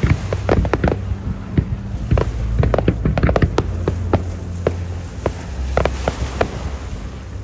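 Fireworks display: aerial shells bursting in rapid, irregular bangs and crackles over a low rumble. The bangs come thickly for the first four seconds or so, then thin out and stop near the end.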